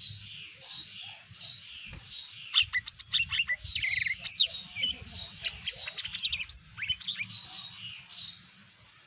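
Cucak ijo mini (green leafbird) singing: a string of evenly repeated chirps, then from about two and a half seconds in a loud, fast run of varied whistles, sharp clicks and sweeping notes that lasts several seconds and fades near the end. A faint low hum runs underneath.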